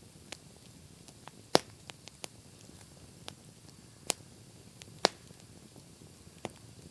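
Wood campfire crackling: irregular sharp pops and snaps over a low, steady hiss, with two loud pops about a second and a half in and again about five seconds in.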